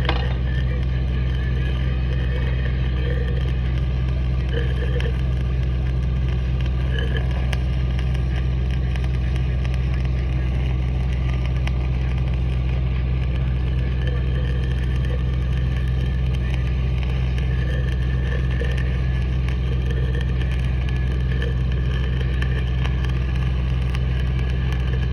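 Stick welding a root pass with a 7018 electrode: the arc crackles steadily over the low, even drone of the running welding machine.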